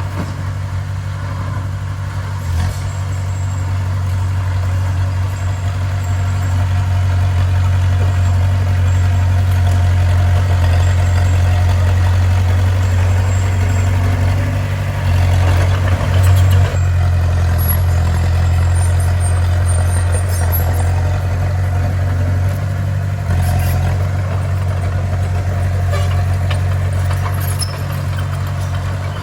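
Heavy diesel engine of a bulldozer running steadily at work, with a few short knocks a few seconds in, about halfway through and again later.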